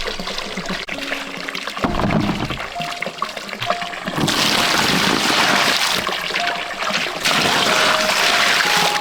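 Running water splashing and trickling, louder from about four seconds in.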